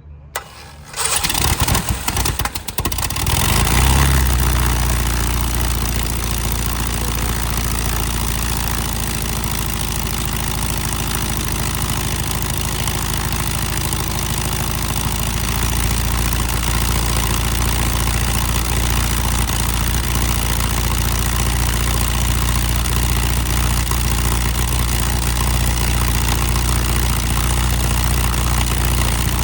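Freshly rebuilt Lycoming O-290 four-cylinder aircraft engine on a Thorp being cranked by its starter about a second in, catching after a few seconds, then running steadily with its propeller turning.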